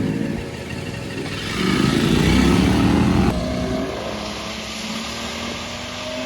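Motorcycle engine revving, louder for about a second and a half in the middle, then settling to a steadier note that slowly rises in pitch.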